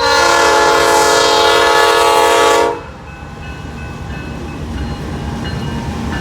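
Diesel freight locomotive's air horn sounding one long blast of nearly three seconds, a steady multi-note chord; the railfan takes the locomotive for an older GE Dash 8. After the horn cuts off, the train's low running rumble grows steadily louder as it approaches.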